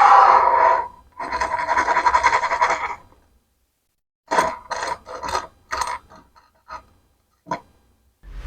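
Plastic Lego Technic parts rattling and scraping against each other for a few seconds, then a string of about seven short, separate plastic clicks as pieces are handled and snapped together. A low whoosh begins right at the end.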